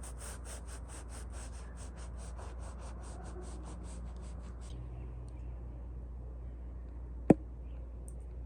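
Quick, rhythmic rubbing or scraping strokes, about five a second, stopping about five seconds in; a single sharp knock follows near the end.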